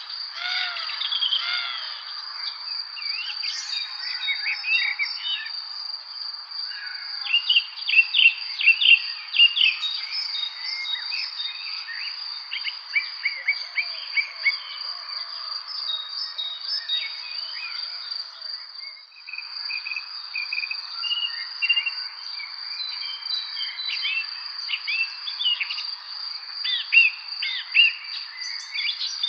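Evening chorus of songbirds chirping and singing in many short, rapid notes, busiest about a third of the way in, over a steady high-pitched trill that never stops.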